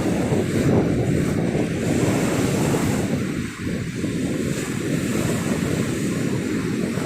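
Sea waves washing onto the beach under heavy wind buffeting on the microphone, a steady, choppy low rumble.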